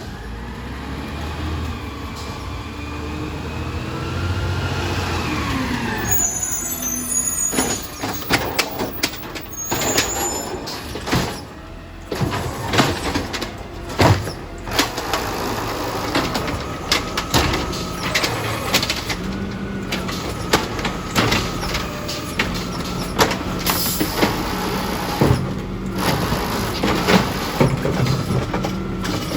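A recycling garbage truck's engine revs up and down as its hydraulics work. Then comes a long run of sharp clattering knocks, typical of a cart's recyclables tumbling into the hopper, over a steady hydraulic whine that sets in about halfway through.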